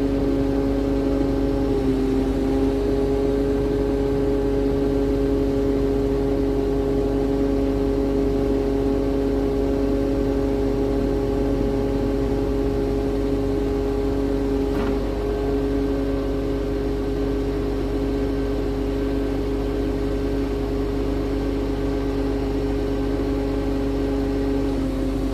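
Scania P380 truck's diesel engine running at a steady speed, with a constant whine over a low rumble.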